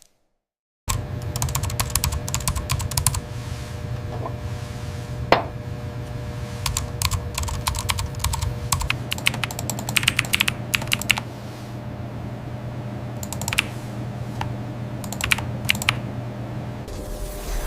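Irregular bursts of quick, light clicks, like typing on a keyboard, over a steady low hum.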